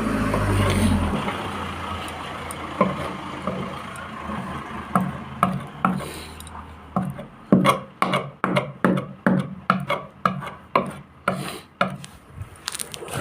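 Hand rubbing strokes on a boat hull, with sanding or brushing on of gelcoat as the likely work: short scraping strokes, about two a second, coming steadily through the second half. A low motor hum cuts off about a second in.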